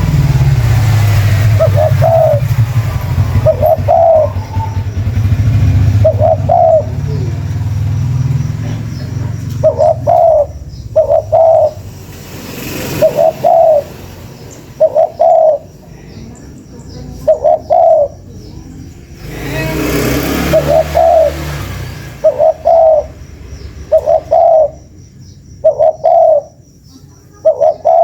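Spotted dove (tekukur) cooing, played as a lure call: short coos repeated every second or two. A low rumble runs under the first third and returns about twenty seconds in.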